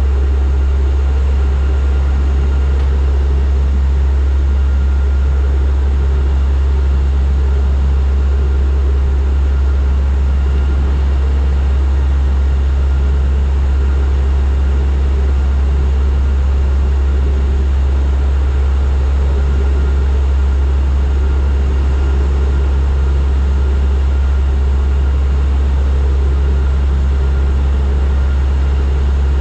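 Turboprop aircraft's engines and propellers in cruise or descent: a steady, loud, deep drone with a faint higher whine over it, unchanging throughout.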